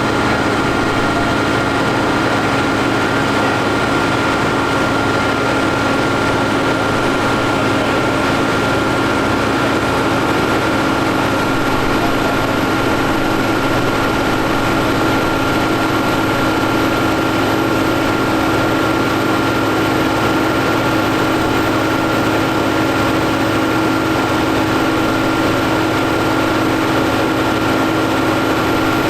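Fendt 716 tractor's six-cylinder diesel engine running at steady revs while driving a PTO dynamometer, with a steady whine over the engine note.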